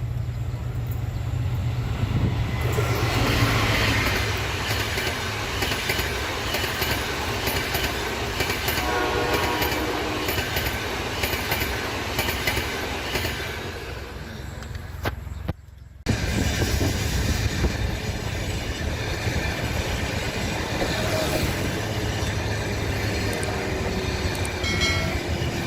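Egyptian National Railways diesel train running past with steady engine and wheel noise. The horn sounds once about nine seconds in. The sound drops out briefly around sixteen seconds, then the train noise carries on, with a few short high squeals near the end.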